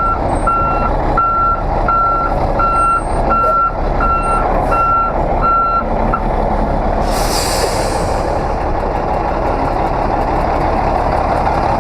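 Truck reversing alarm beeping about twice a second over a steady diesel engine rumble; the beeping stops about six seconds in. A loud hiss of air, like an air brake, follows a second later.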